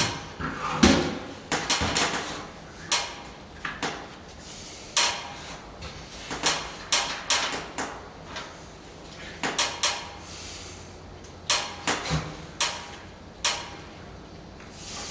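Irregular sharp knocks, taps and clatters of hand tools and materials being handled during lath-and-plaster wall repair work, with no steady rhythm.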